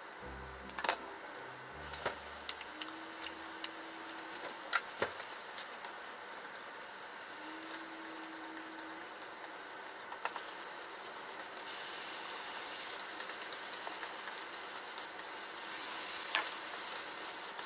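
Japchae (glass noodles, meat and vegetables) sizzling in a frying pan, with a steady hiss that gets louder about twelve seconds in. Chopsticks click against the pan several times in the first five seconds and once more near the end.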